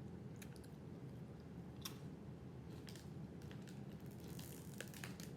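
Faint, scattered crunches and clicks of someone chewing crunchy Combos pizza-filled snacks, over a steady low hum.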